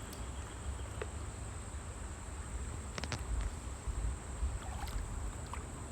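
Wind rumbling on the microphone over a steady outdoor hiss, with a thin high steady tone and a few faint clicks, two close together about three seconds in.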